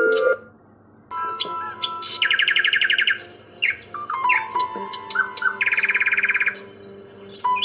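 Birds chirping, with two long rapid trills, over soft background music with sustained notes. There is a brief lull just after the start.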